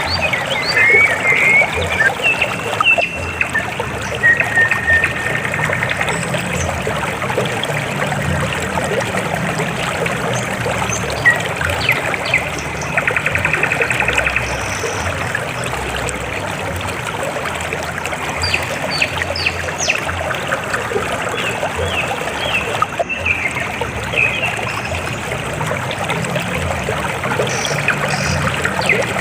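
River water flowing and trickling over rocks as a steady rushing splash. Scattered short high chirps and a couple of buzzy trills sound over it.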